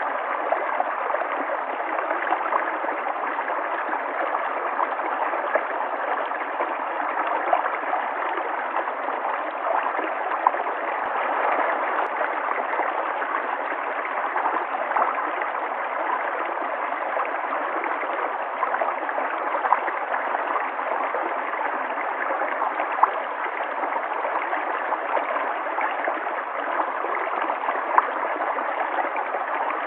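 River water flowing steadily, with small splashes and gurgles scattered through it.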